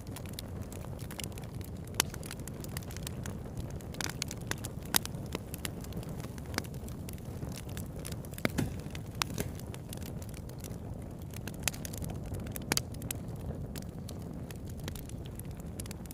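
Campfire burning with a steady low rush and frequent sharp, irregular crackles and pops.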